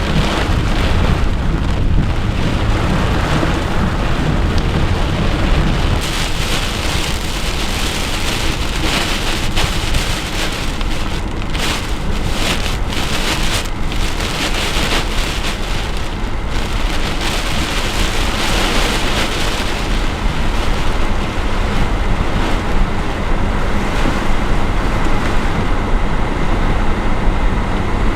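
Heavy wind-driven rain from a severe thunderstorm: a loud, steady rush with a deep rumble underneath.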